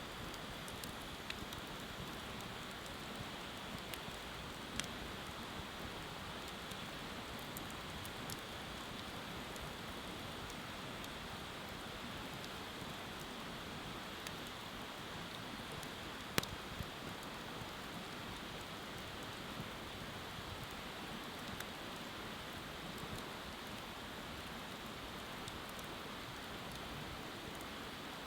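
Wood bonfire crackling, with scattered sharp pops and one louder snap about sixteen seconds in, over a steady rushing hiss of river water.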